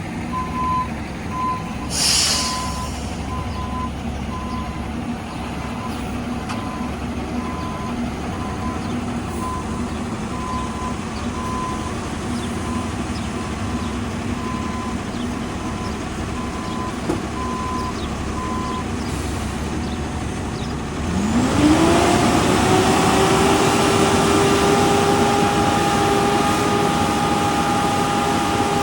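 A heavy truck's reversing alarm beeps repeatedly over a running diesel engine, with a short hiss of air brakes about two seconds in. After the beeping stops, an engine revs up and holds a higher, steady, louder note.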